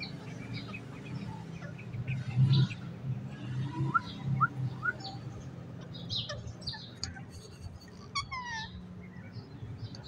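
Birds chirping: many short, high calls, a few quick rising whistles about four seconds in, and a falling run of notes just after eight seconds, over a steady low hum.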